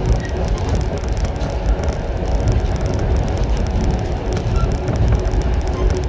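115 series electric multiple unit running, heard from inside the passenger car: a steady rumble of wheels on rail, with a steady hum running through it.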